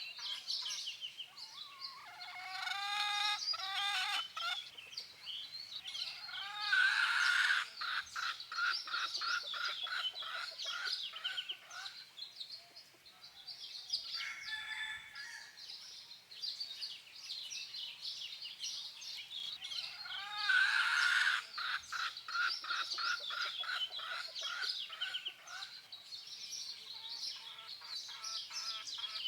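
Chickens clucking and cackling, with a loud run of rapid clucks twice, over a background of high chirping.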